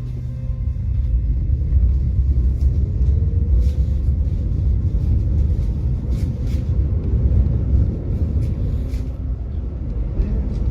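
Tram running on its rails: a deep rumble that builds about half a second in, with a faint whine rising in pitch over the first few seconds and scattered sharp clicks from the wheels on the track.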